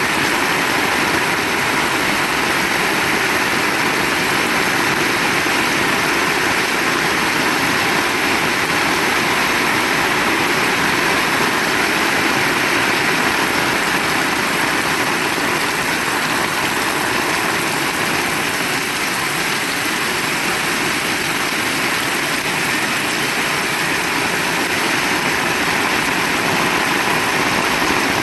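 Heavy rain pouring steadily, an even, unbroken hiss with no thunderclaps.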